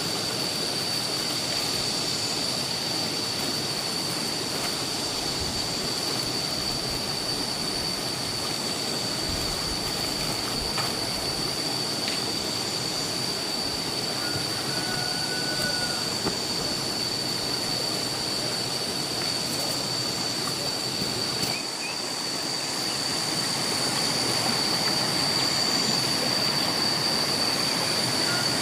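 A steady high-pitched whine that never breaks, over a constant hiss.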